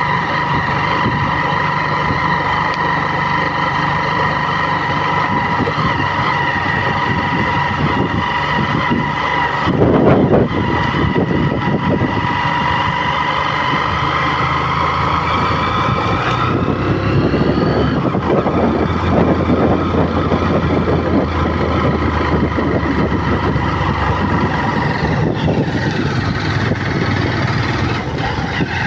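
A vehicle engine running steadily, with a high whine that shifts in pitch about two-thirds of the way through. There is a louder rumble about ten seconds in.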